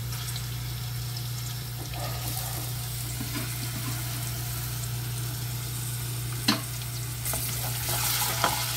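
Minced garlic and chopped red onion sizzling in hot oil in a metal frying pan, stirred with a wooden spoon. Two sharp knocks, the spoon against the pan, about six and a half seconds in and near the end.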